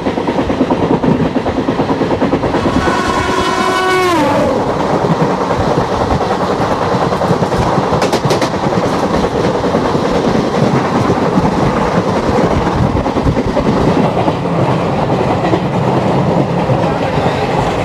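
Pune–Ernakulam Express running at speed, steady rail noise and clickety-clack of the wheels heard at the open coach door. A couple of seconds in, the horn of the oncoming Chennai–Mangalore Express sounds for about two seconds and drops in pitch as its locomotive goes by, then its coaches rush past, with a run of sharp clacks about eight seconds in.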